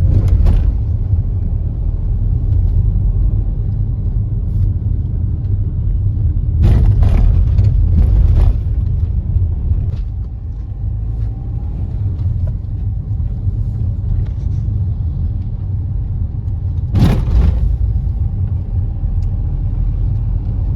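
Car on the move: steady low road rumble, with a few brief louder bumps, about seven seconds in, again around eight, and near the end.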